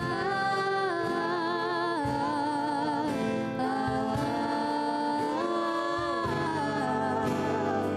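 Live gospel worship song: several voices sing long, held notes in harmony over acoustic guitar.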